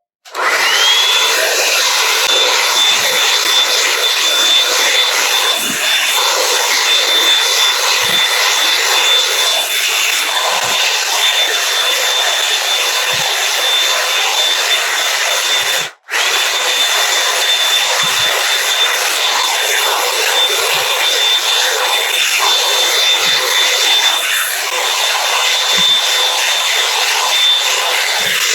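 Revlon One Step hot-air brush dryer running on its motor. It spins up in the first second to a steady high whine over a loud rush of air, cuts out for an instant about halfway through, and carries on.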